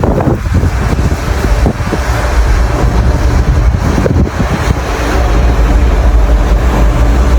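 Blizzard wind buffeting the microphone: a loud, continuous low rumble with a hiss above it, rising and falling in gusts.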